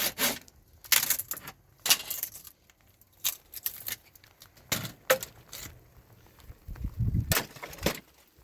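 Irregular sharp clinks and knocks, spaced about a second apart, with a few duller thumps near the end.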